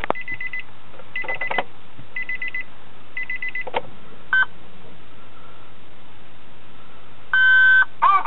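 Car's electronic warning chime beeping in short rapid bursts about once a second, with a couple of clicks, then a longer single beep near the end, just before the engine cranks.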